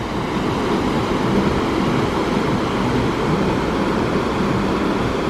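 Steady rushing, rumbling noise with a faint low hum underneath.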